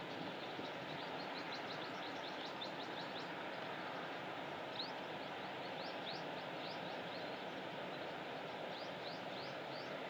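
Many short, high, rising chirps from small birds, scattered irregularly over steady outdoor background noise.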